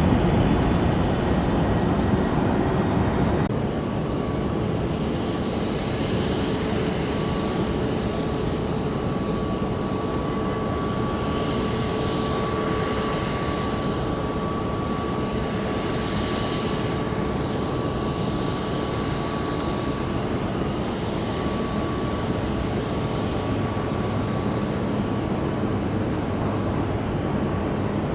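Jet airliner engines running, a steady rumble with a thin high whine; louder for the first few seconds, then holding steady.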